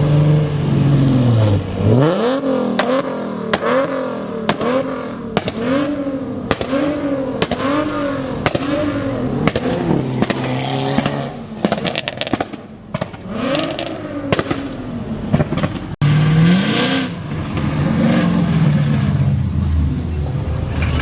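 A car engine revved over and over in quick blips, about one every three quarters of a second, with exhaust pops and crackles between the revs. The blips thin out in the second half into a few slower revs.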